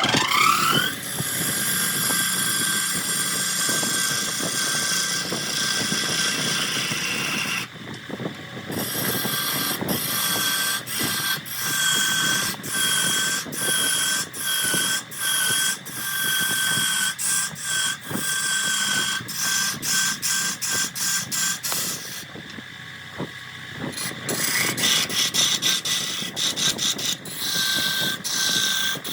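Wood lathe motor winding up in pitch, then running with a steady whine while a turning tool cuts the spinning wood. The cutting comes in short repeated bursts through the middle, eases off briefly, then runs steadily again.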